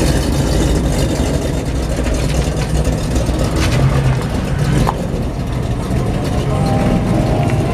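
Truck engine running with a steady, low rumble.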